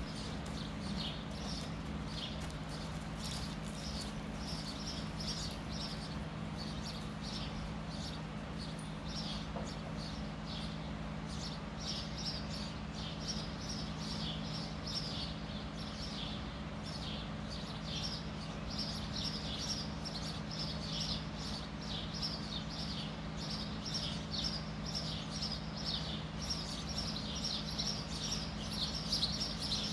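Bird chirping continuously in short, high, falling chirps, several a second, growing busier after about ten seconds, over a steady low hum.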